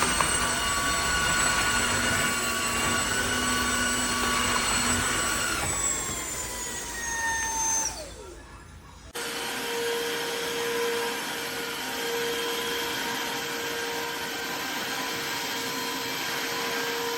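Tineco iFLOOR wet-dry floor cleaner's vacuum motor running with a steady whine, then winding down in pitch and stopping about six to eight seconds in. About a second later it starts up again and runs steadily, on a lower, different whine.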